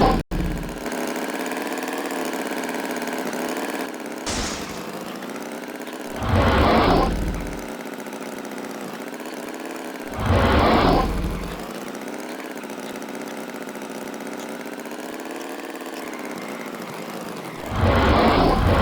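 An engine running steadily at idle, with a slightly wavering hum. Loud rushing surges break in about six seconds in, again about four seconds later, and near the end.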